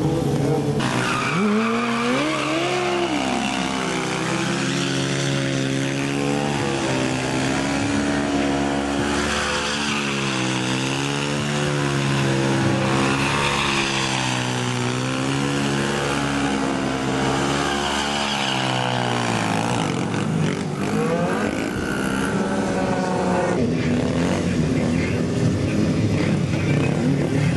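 Mini bike engine revving hard. It climbs sharply about a second in, then is held at high revs with the pitch wavering up and down as the throttle is worked.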